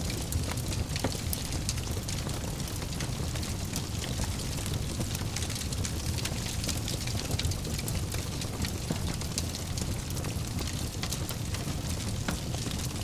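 Wood fire burning in a fireplace: a steady low rumble and hiss of flames with frequent small, sharp crackles and pops scattered throughout.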